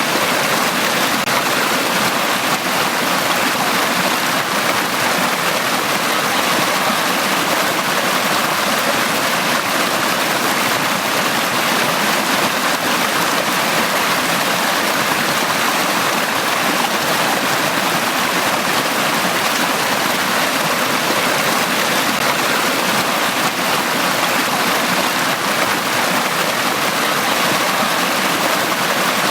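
Valley stream flowing steadily, an even rush of water with no breaks or changes.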